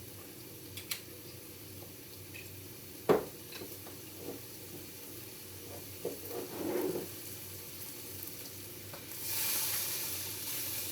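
Stir-fry vegetables sizzling in a hot pan while being stirred, with scattered clicks of the utensil against the pan and one sharp clack about three seconds in. The sizzle swells into a louder hiss near the end.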